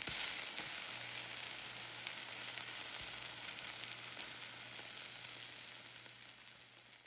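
Burger patty with grated cheese and greens sizzling in a nonstick frying pan, a steady hiss that is loudest at the very start and fades away near the end.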